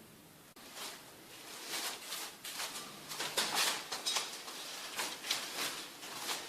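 Adhesive tape being pulled off a roll in a series of short, rasping rips, fixing a tiled fireplace arch temporarily in place.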